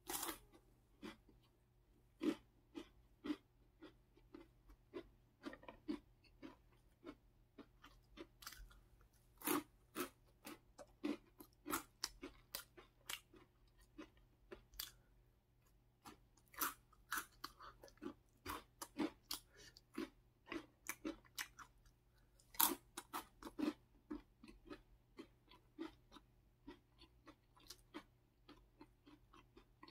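Close-up chewing of a crisp snack: many sharp crunches at an uneven pace, with a short lull partway through.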